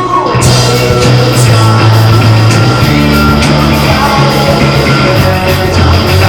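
Live band playing loud amplified music, a held low bass line changing notes every second or so under dense, full-range playing.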